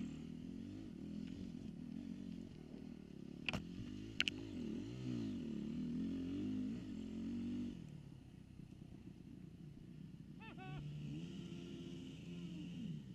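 Dirt bike engine revving up and down as it is ridden round the track, with two sharp knocks about three and a half and four seconds in. The engine eases off about eight seconds in, then picks up again.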